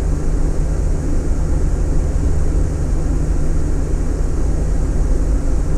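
Steady low rumble of road and engine noise inside the cabin of a moving Cadillac Escalade.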